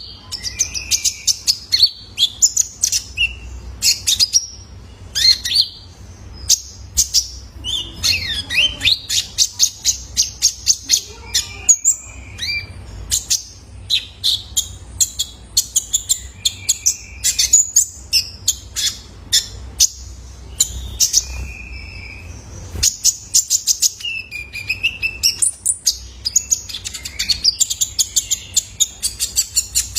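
Young male little spiderhunter (kolibri ninja) singing a fast, continuous run of sharp high chips and short twittering notes, with a steady low hum underneath.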